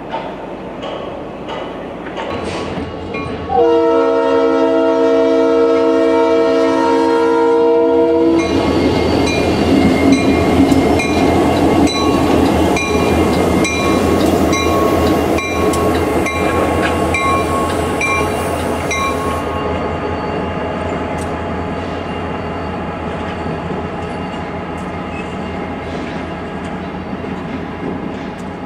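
Norfolk Southern diesel locomotives sounding one long horn blast of several notes together, lasting about five seconds, at a grade crossing. Then the engines and wheels run past, loudest just after the horn and fading as the locomotives move away. A bell rings at an even beat, about once a second.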